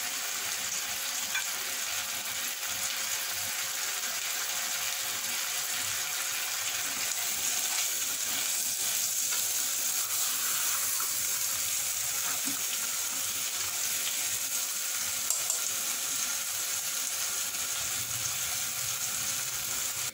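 Mutton, field beans and brinjal frying in oily tomato-spice masala in an open pressure cooker: a steady sizzle with faint scrapes of stirring.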